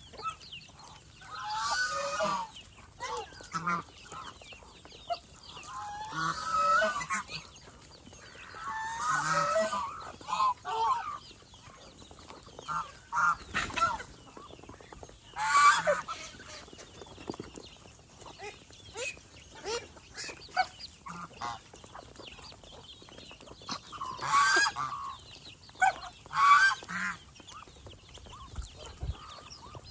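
Domestic geese honking in repeated bouts, with shorter fowl calls and clucks in between.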